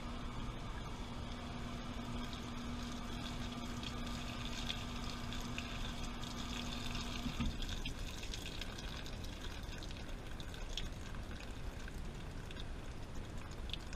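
Washing machine with water running and splashing in its drum. A steady hum from the machine stops about halfway through, while the water noise and small splashes go on.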